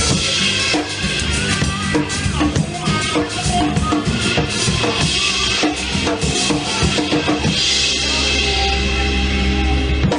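Live band playing with a busy drum kit, bass and other instruments, then holding a final chord with a cymbal wash for the last couple of seconds before stopping at the end of the song.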